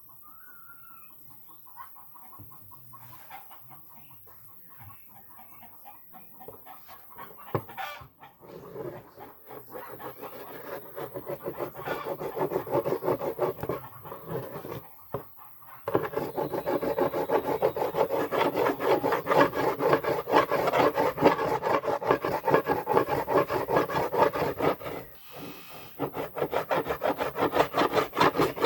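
A hand tool rasping back and forth on wood in quick, even strokes, faint at first, building from about eight seconds in and loudest through the second half, with a brief pause near the end.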